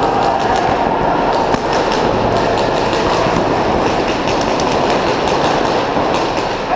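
Paintball markers firing rapid strings of shots, many clicks overlapping, over a steady noisy background.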